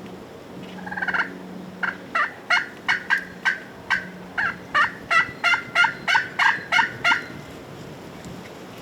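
Wild turkeys calling: a short rattling call about a second in, then a long run of sharp, clipped single notes that come faster toward the end. These are typical alarm putts of toms that have spotted danger.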